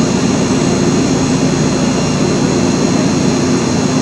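Steady loud rushing noise with a thin high whine and a low hum running through it, unchanging throughout.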